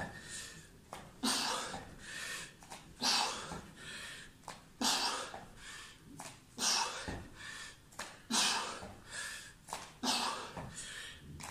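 Forceful, sharp breaths of a person exercising hard: a strong exhalation about every two seconds, six in all, with lighter breaths between.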